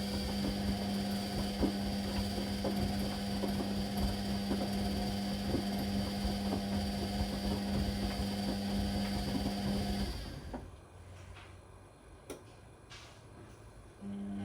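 Whirlpool Indiana 1400 washing machine turning its drum during the wash, its motor humming with a high whine. About ten seconds in, the motor stops for the pause between tumbles, leaving a few soft knocks. It starts again near the end.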